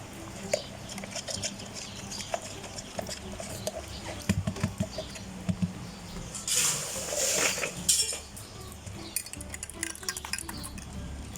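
Kitchen utensils and drink cups clinking and clattering as an iced drink is made, with a brief rushing noise lasting about a second and a half past the halfway point.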